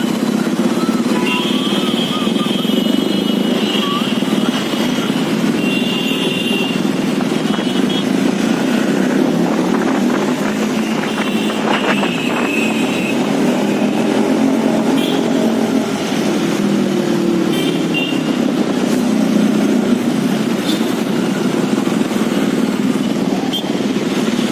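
Bajaj Pulsar RS 200's single-cylinder engine running steadily under way through its aftermarket exhaust, with a few short high tones in the first half.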